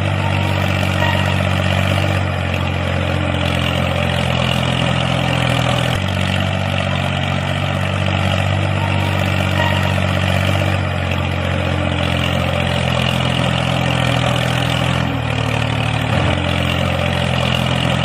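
Engine running steadily at idle: a low, even hum with a hiss over it, shifting slightly in pitch a few times.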